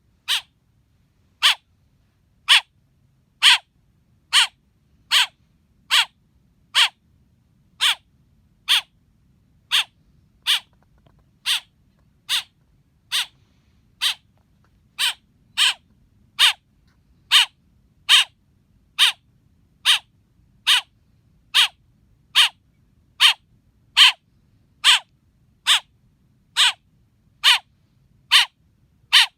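Baby blackbird calling, one short, sharp chirp a little under every second in a steady, unbroken series.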